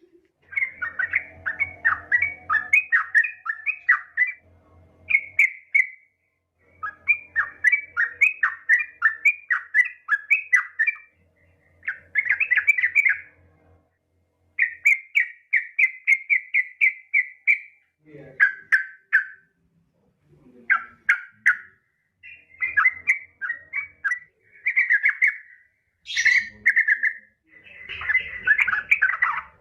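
Yellow-vented bulbul (trucukan) calling: a female's call, used as a lure to set males singing. It gives repeated bouts of quick chattering notes, each bout lasting one to four seconds, with short pauses between.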